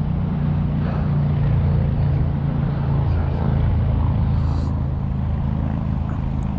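KTM 300 XC-W TPI's single-cylinder two-stroke engine running steadily at a low, even pitch.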